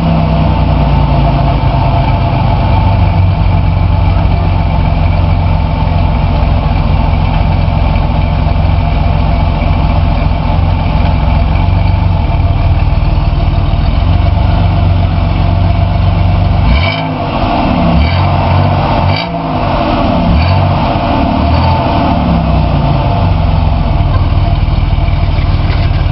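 1988 Oldsmobile Cutlass Supreme SL's engine and exhaust running steadily at idle. About two-thirds of the way through, the engine is revved briefly twice, its pitch rising and falling back to idle each time.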